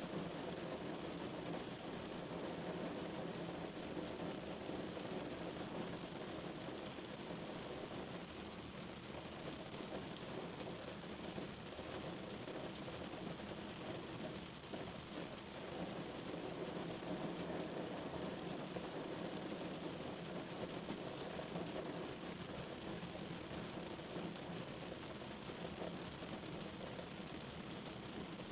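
Rain falling steadily on a car's body, a dense, even patter of drops with no letup.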